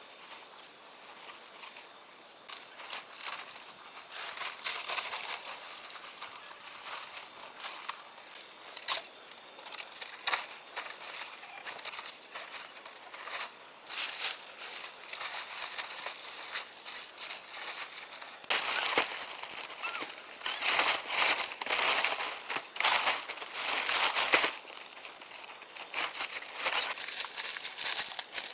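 Irregular crinkling and rustling of dry material being handled, louder for several seconds in the second half.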